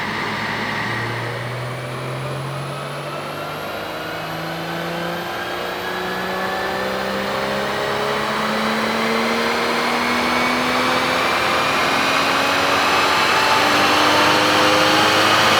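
Porsche 981 Cayman S flat-six engine through an Armytrix valvetronic exhaust, accelerating. The engine note rises slowly and steadily in pitch and grows louder toward the end.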